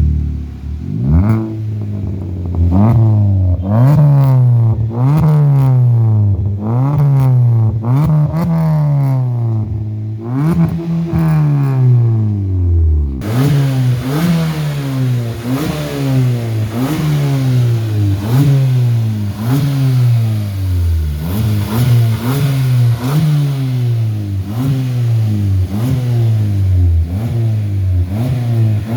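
Maruti Suzuki Baleno's engine, with an aftermarket HKS free-flow exhaust, revved in short throttle blips about once a second, each rising in pitch and falling back. About 13 s in the sound shifts to a hissier take of the same revving.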